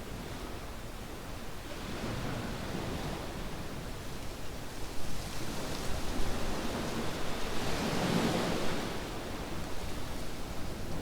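Waves washing onto a sandy beach, the surf swelling twice, the second wash about eight seconds in the loudest.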